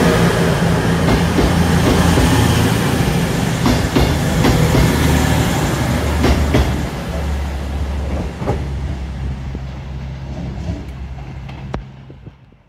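A train passing, with a steady low drone and wheels clicking over the rail joints, the sound fading away over the last few seconds.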